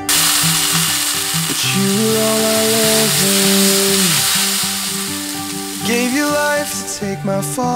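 Julienned salted radish sizzling as it is stir-fried in a pan, a loud, steady hiss that starts suddenly and eases near the end.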